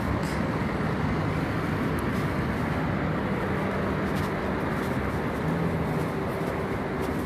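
Steady city street background noise: an even, traffic-like rumble with a faint low hum running through it.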